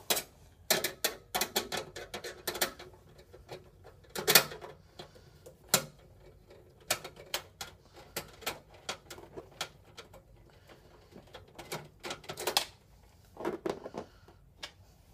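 Irregular sharp clicks and taps of hard objects being handled, in quick clusters with short pauses, one knock about four seconds in louder than the rest.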